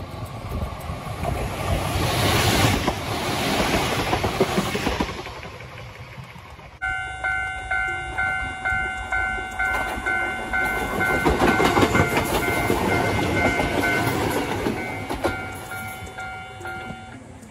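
A Kintetsu 16000-series electric train runs past on the rails, rising and then fading. After a sudden change a railway level-crossing bell rings steadily at about two strokes a second, while a train rolls past with wheels clattering over the rail joints. The bell stops near the end.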